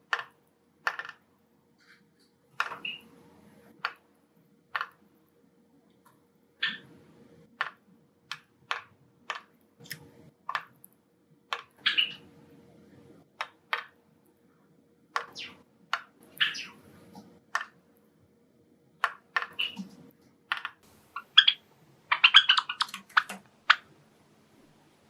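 Pet Java sparrows giving short, sharp chip calls and clicks at irregular intervals, with a fast run of notes near the end.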